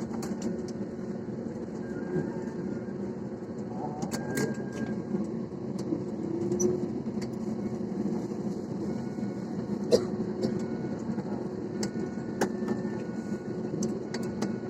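Airliner cabin noise while taxiing after landing: a steady hum of the engines at low thrust, with scattered sharp clicks.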